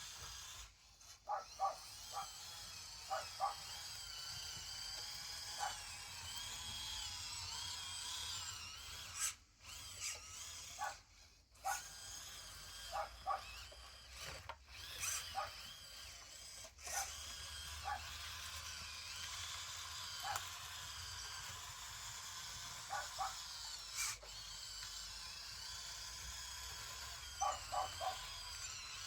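Small electric motors and gearboxes of radio-controlled model construction machines whining steadily, the pitch wavering as they work, with short clicks and knocks every second or two.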